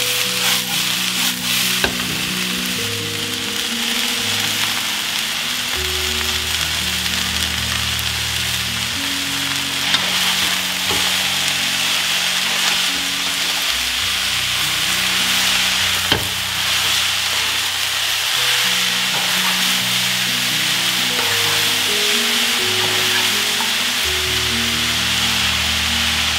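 Stir-fry sizzling steadily in a stainless steel honeycomb wok as it is stirred, with a few sharp clicks of the utensil against the pan.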